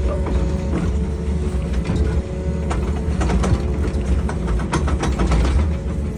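Excavator diesel engine running steadily, with a quick run of metallic clanks and knocks from about three to five and a half seconds in.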